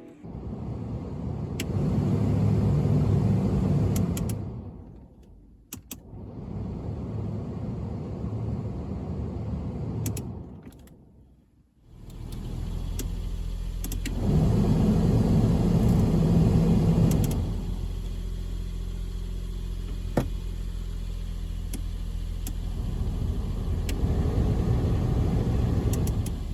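Subaru Sambar (Hijet Cargo) kei van running: a low, noisy sound that swells and fades away twice, then a steady low hum sets in about twelve seconds in, with two further swells on top.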